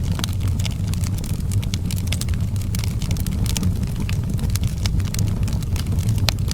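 Outdoor fireplace fire crackling, with many quick sharp pops over a steady low rumble.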